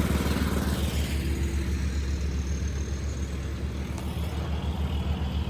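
Construction machinery engine running steadily with a low rumble.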